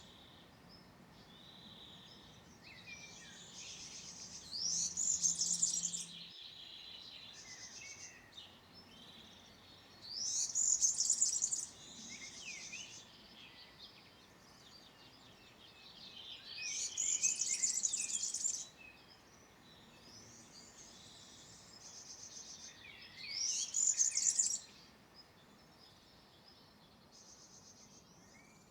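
European serin singing: four loud bursts of high, rapid song, each about two seconds long, coming roughly every six seconds. Fainter bird song fills the gaps between them.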